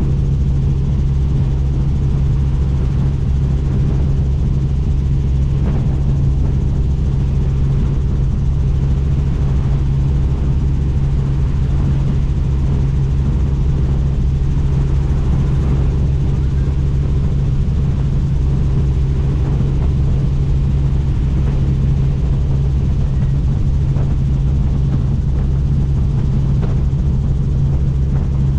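Helicopter in steady flight heard from on board: a constant, loud, low drone of rotor and engine that does not change.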